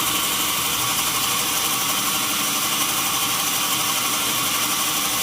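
Sawmill machinery running steadily, a constant loud mechanical drone with a strong high hiss that neither rises nor falls.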